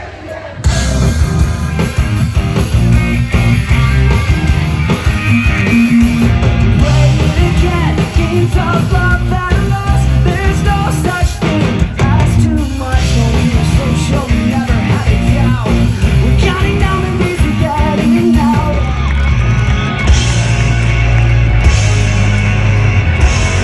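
Loud live heavy rock band playing at full volume: distorted guitars, bass and drums, with sung and yelled vocals. It drops out for a moment at the start, then crashes back in.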